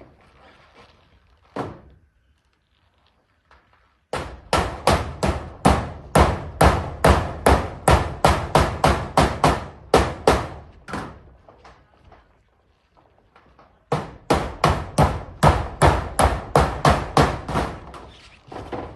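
Hammer driving nails into zinc roofing sheets: one blow, then two long runs of quick, steady strikes, about three a second, with a pause of a few seconds between.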